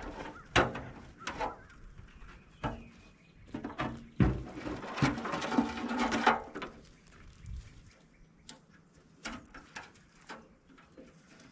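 Clicks, knocks and scraping of small metal and plastic parts being handled and worked loose while a tractor instrument cluster is taken apart. The clicks come thickly, with a longer scraping stretch near the middle, then thin out to scattered clicks.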